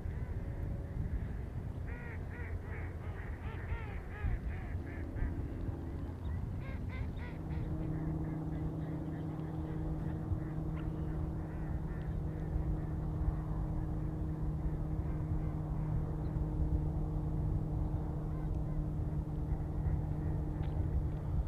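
Rapid series of high, chattering bird calls, about four a second, starting about two seconds in and again around seven seconds, over a steady low rumble. From about seven seconds on, a steady engine hum joins in.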